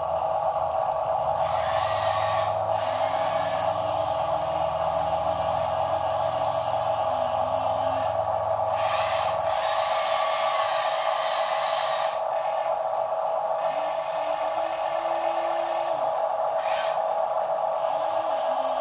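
Small electric gear motors of a toy RC dump truck, whining steadily, with intermittent scraping and rattling noises over the top.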